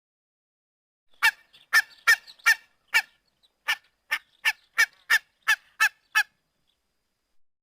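A run of about thirteen short goose-like honks, closer together in the second half, stopping a little after six seconds. It is a made-up swan–goose hybrid call mixed from whooper swan, Canada goose and domestic goose recordings.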